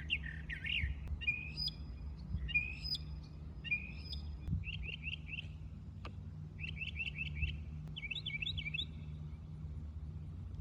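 Northern mockingbird singing a string of different phrases one after another: sweeping notes, then three phrases with a high whistle over a lower note, then runs of rapid repeated chirps. It mimics other sounds. A steady low hum runs underneath.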